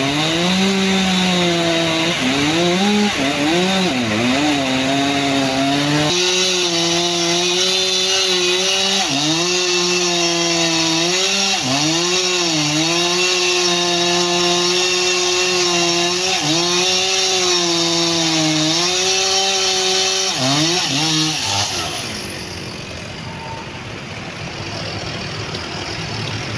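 Chainsaw cutting through wood, its engine pitch dipping and recovering again and again as the chain loads up in the cut, with steadier full-throttle stretches between. The saw's note stops about 21 seconds in, leaving a quieter background.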